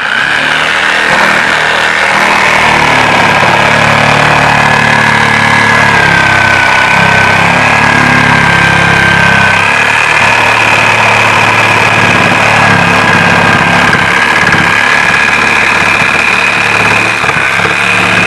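A motor running steadily with a high whine and a low rumble, starting suddenly and cutting off near the end; the whine drops slightly in pitch partway through.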